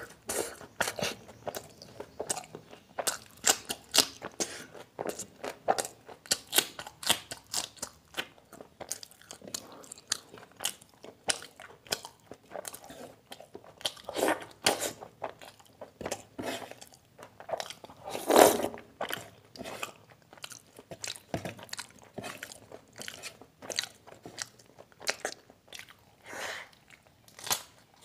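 Close-up eating sounds: a man chewing and biting chicken liver curry and raw green chillies, a dense run of wet clicks and crunches, with one louder sound about two-thirds of the way through.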